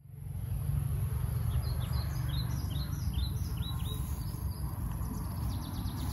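Small birds chirping: a run of quick, short chirps starts about a second and a half in, and a fast trill follows near the end. Under them run a steady low rumble and a constant high hiss.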